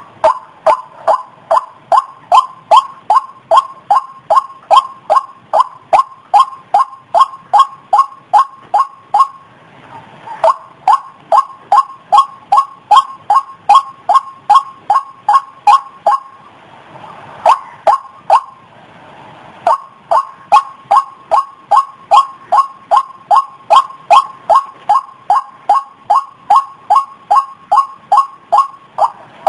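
White-breasted waterhen's lure call: a fast, even series of short notes, about three a second, broken by short pauses about ten seconds and about seventeen seconds in.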